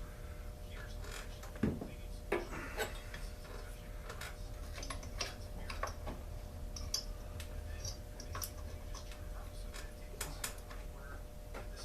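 Irregular light clicks, taps and clinks of hand tools and small chainsaw parts being handled on a workbench, over a steady low electrical hum.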